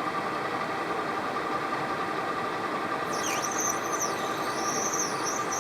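Lathe running steady while a cutting tool turns a heat-resistant plastic bushing. About halfway through, a high, wavering squeal from the tool cutting the plastic joins in.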